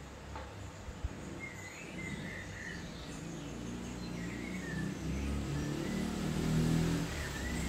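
Birds chirping in short bursts several times over a low steady rumble that swells about five to seven seconds in, with one sharp tap about a second in.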